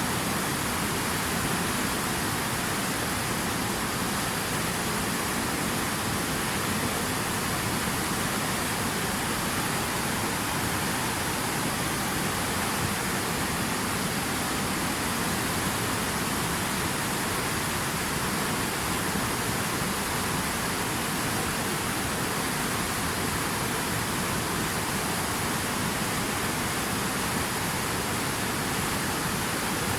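Steady rushing water: an even, unbroken hiss of falling or flowing water.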